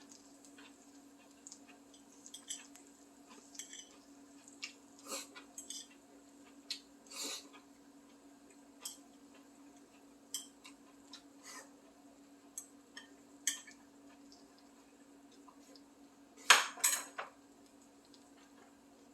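Utensils clinking and knocking against dishes and a cooking pan in scattered, irregular taps, with the loudest knocks near the end, over a steady low hum.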